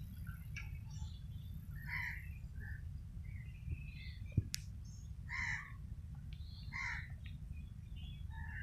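Birds calling, short repeated calls coming every second or so, over a steady low rumble. A single sharp click about four and a half seconds in.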